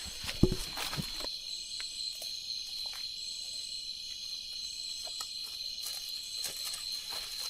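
Night insects, crickets, chirring steadily in a high continuous tone, with a second, higher chorus that comes and goes in pulses. A couple of thumps, like footsteps, in the first second.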